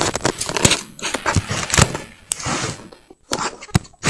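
Handling noise: a quick, uneven series of clicks and knocks with rustling between them.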